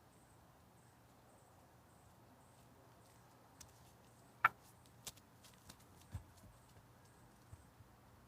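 Chipmunk cracking open seeds and nuts: about half a dozen sharp, scattered clicks and cracks, with one louder crack midway.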